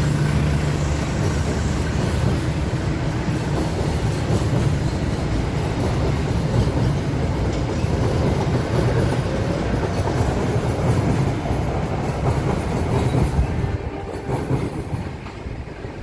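Passenger train carriages rolling past as the train pulls out, a steady rumble with wheels clicking over the rail joints; the sound drops off about fourteen seconds in as the end of the train goes by.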